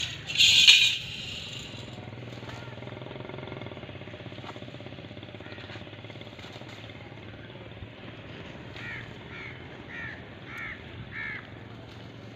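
A bird calls five times in quick succession, each short call falling in pitch, over a steady low hum. Near the start there is a short, loud burst of hiss.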